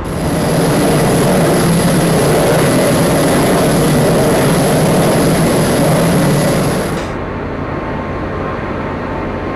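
Jet aircraft engine running at high power: a steady roar with a thin high whine on top, cutting off suddenly about seven seconds in and leaving a lower steady rumble.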